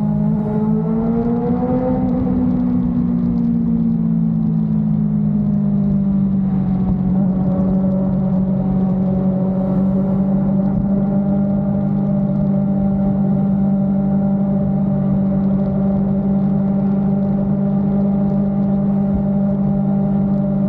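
Motorcycle engine rising in pitch over about two seconds, easing back, then holding a steady drone at cruising speed.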